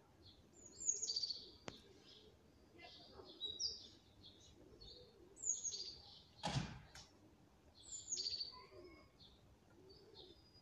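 Birds chirping, short falling chirps repeated every couple of seconds, with a brief low thump about six and a half seconds in.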